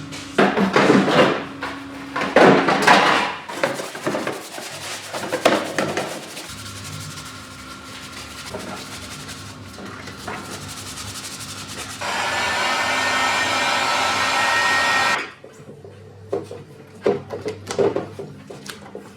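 Plastic pocket-bike body parts being scrubbed clean in short, rough rubbing strokes. About two-thirds of the way through comes a steady hissing blast lasting about three seconds that cuts off suddenly, and the scrubbing then resumes.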